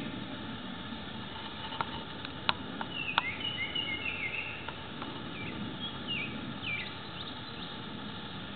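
Small birds chirping in short calls that slide up and down, over a steady background hiss, with a few sharp clicks, the loudest sounds, about two and three seconds in.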